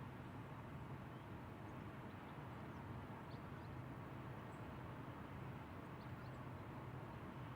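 Steady outdoor ambience, an even low hiss and rumble, with a few faint, short bird chirps scattered through.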